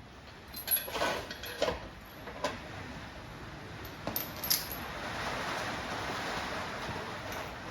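A handful of sharp metallic clinks and clanks of tools and parts being handled during engine work, followed from about five seconds in by a steady hiss.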